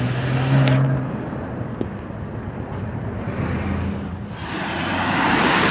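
City road traffic passing: a vehicle's steady low hum stops about a second in, the road noise dips, then another vehicle grows louder as it approaches near the end.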